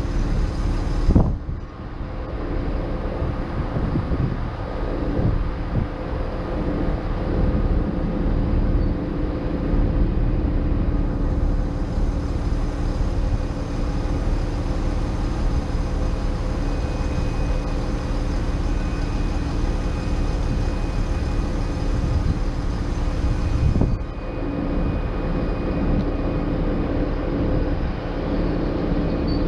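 Diesel train engine idling with a steady drone, with a sharp knock about a second in and another near the end. A faint high whine joins midway and fades out later.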